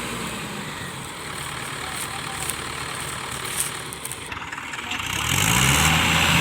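A heavy vehicle's diesel engine running behind a rough, noisy haze; about five seconds in it revs up, rising in pitch and getting louder.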